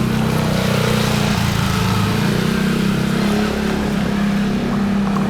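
Boat engine running steadily at a constant speed, a loud low hum over the rush of water and wind.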